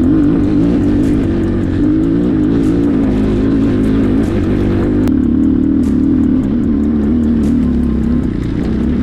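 Enduro motorcycle's single-cylinder engine running steadily under way, its pitch wavering a little with the throttle.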